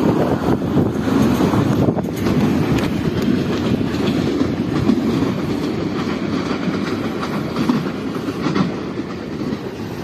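Train rolling along the track: a steady rumble with the clickety-clack of wheels over rail joints, slowly getting quieter.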